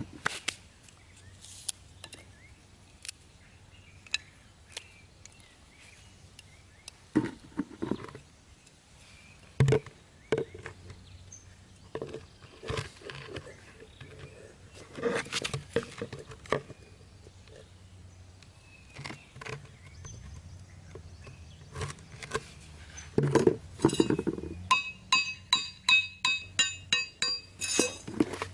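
Hand-tool work on a wood-and-basket trap: scattered knocks, clicks and handling noises. Near the end comes a quick run of ringing metallic taps, about three a second.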